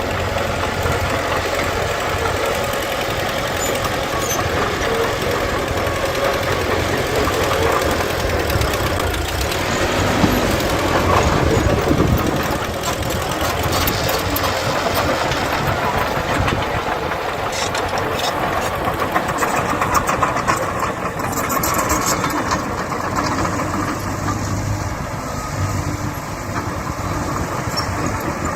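Diesel engines of heavy earthmoving machines, a bulldozer and dump trucks, running steadily. They grow louder around ten seconds in, and a run of clanking rattles comes a little past the middle.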